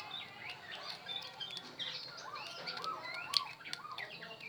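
Birds chirping and twittering in many short, rising and falling notes, with a sharp click about three seconds in.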